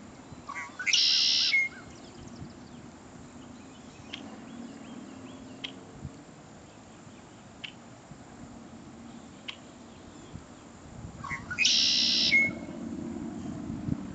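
A songbird singing twice, about ten seconds apart. Each song is a few quick lower notes leading into a loud, harsh trill of under a second that ends in a short whistle. Faint scattered ticks come in between.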